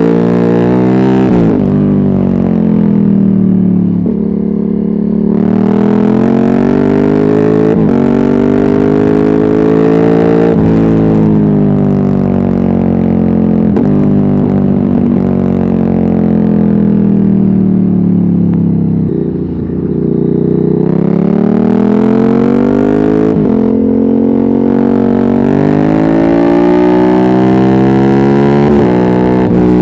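Ducati Hypermotard 796's air-cooled L-twin engine through a Termignoni decat exhaust with no dB killer, revving up and dropping back over and over as the bike accelerates through the gears and slows. Around the middle the revs fall slowly for several seconds before climbing hard again.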